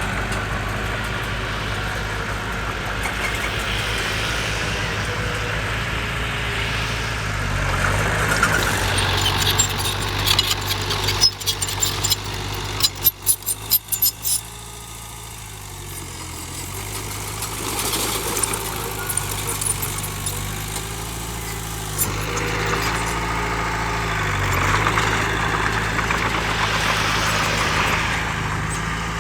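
Heavy diesel engine of earthmoving machinery running steadily, its pitch shifting a little as it works. About halfway through comes a burst of sharp clattering, after which the engine drops back quieter for a few seconds before rising again.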